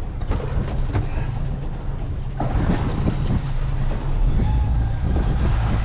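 Wind buffeting the microphone aboard a small fishing boat at sea: a steady low rumble with a rushing hiss that grows louder about halfway through.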